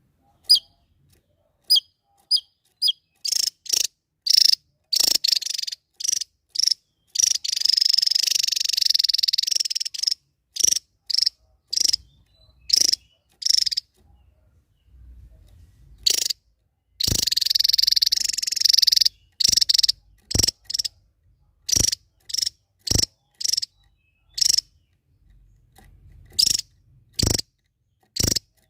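A small songbird sings a run of short, sharp high chirps with gaps between them. Twice it breaks into a long, dense, buzzy trill lasting two to three seconds. This is the rapid high-pitched 'nembak' style that birdkeepers prize.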